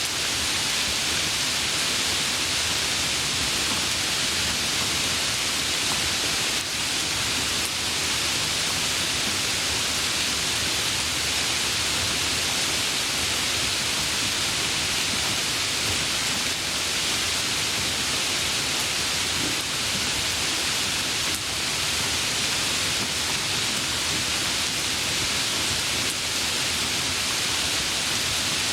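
Steady rain falling, an even hiss with no breaks or rises.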